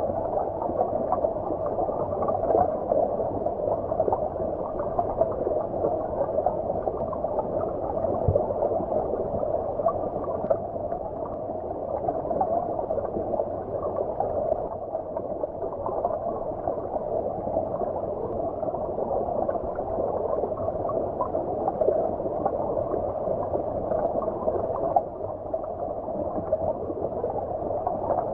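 Flowing stream water heard from underwater: a steady, muffled rushing and gurgling with no high hiss.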